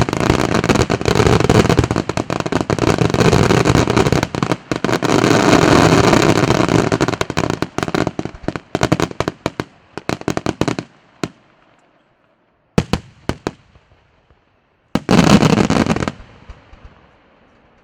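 Aerial fireworks display: a dense, continuous barrage of bangs and crackle that thins out to scattered single reports about halfway through. Then come a few lone bangs and one short, loud volley near the end, dying away in echoes.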